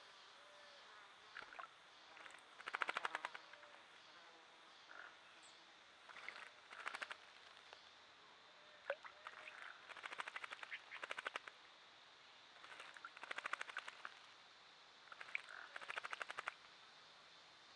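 Frogs calling: faint rattling trills of rapid clicks, each about a second long, repeating every few seconds over a steady high hum.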